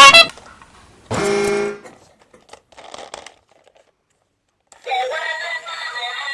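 Two short pitched sound effects: a brief shrill blast, then about a second later a lower tone held for under a second. After a pause, music starts near the end.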